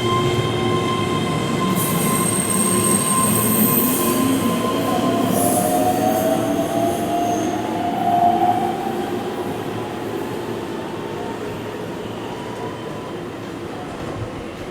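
Keihan electric train running through a curve at the station, its wheels squealing on the rails with a high screech a couple of seconds in. A rising whine follows, and the train sound then slowly fades.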